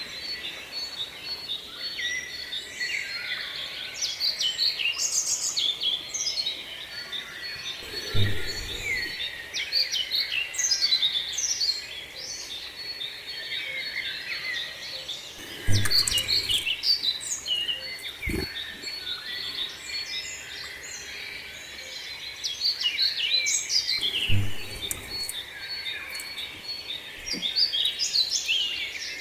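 Several small songbirds chirping and singing, their calls and short trills overlapping. A thin steady high whine runs underneath, and a few dull low thumps come about a quarter, half and four-fifths of the way through.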